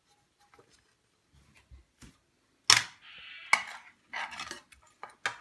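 A utensil scooping scrambled egg out of a frying pan, with a few sharp clicks and knocks against the pan and scraping in between. A brief high-pitched tone follows the loudest knock, about halfway through.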